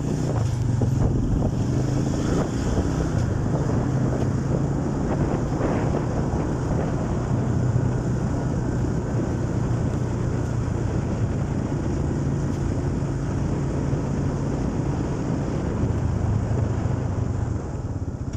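TC-250 motorcycle engine running at a steady pitch while riding, with wind rushing over the microphone.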